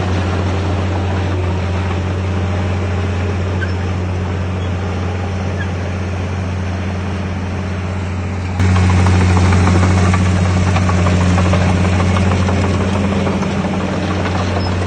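Heavy diesel engine of earthmoving equipment running steadily with a deep, even hum. It jumps abruptly louder a little past halfway through.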